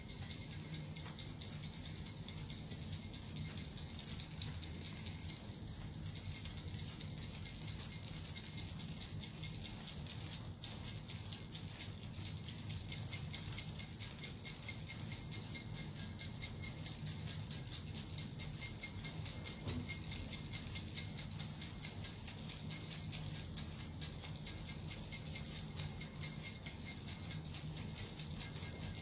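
Small suzu bells shaken continuously in a steady, unbroken jingle.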